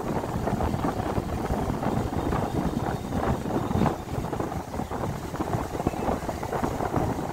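Indian Railways passenger coach rolling slowly, heard from its open doorway: a steady rumble of wheels on rails with irregular clatter and knocks.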